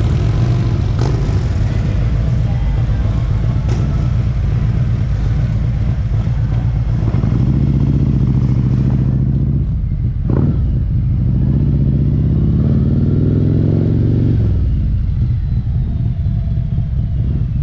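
Harley-Davidson V-twin motorcycle running down the road. The engine pitch rises as it accelerates, breaks off briefly about ten seconds in as it shifts, then climbs again.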